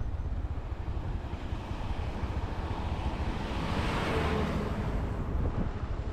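Motorcycle engine running with a steady low rumble and wind noise on the microphone; a rushing sound swells and fades a little past the middle.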